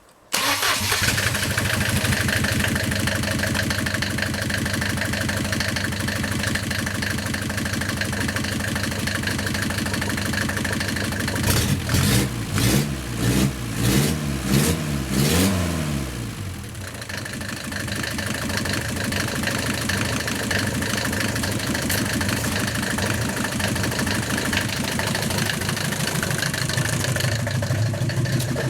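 Mercedes-Benz OM 601 four-cylinder diesel engine starting suddenly and idling. About twelve seconds in it is revved in several quick blips, then settles back to a steady idle.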